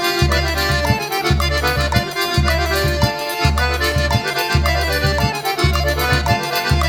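Forró pé de serra instrumental: accordion playing a lively melody over a steady, evenly pulsing bass beat, with no singing.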